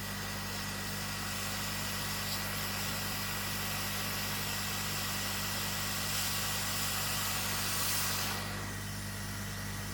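Hot air rework station blowing a steady hiss over a low electrical hum while a MOSFET is heated off a laptop motherboard; the hiss drops back about eight and a half seconds in.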